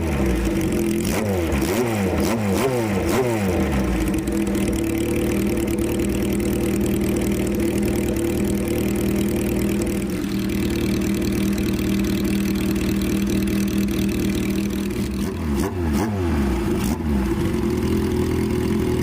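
Kawasaki Z1's air-cooled 903 cc inline-four idling through a period Yoshimura exhaust, with a run of quick throttle blips that rise and fall in pitch about a second in, and another run near the end.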